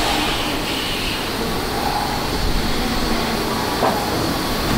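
An Odakyu 1000 series electric train, an unrenovated car, running on the line, heard from on board. Steady wheel and rail noise carries a few faint steady whining tones from the traction equipment.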